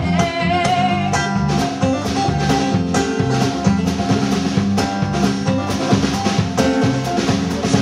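Live band playing an instrumental passage of a folk-rock song: guitar with a drum kit keeping a steady beat.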